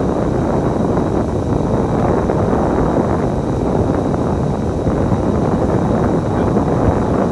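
Steady engine and road rumble heard from inside a moving bus, with some wind noise.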